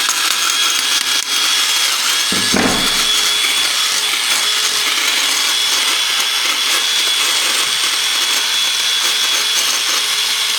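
DeWalt cordless drill running without a break, with a harsh noise that sounds horrible, a sign that something is still wrong inside the just-reassembled drill. There is a brief deeper surge about two and a half seconds in.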